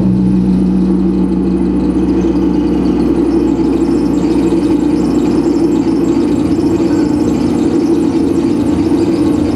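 Live noise music: a loud, steady, droning wall of noise. A deeper low hum comes in at the start and fades away over the first few seconds.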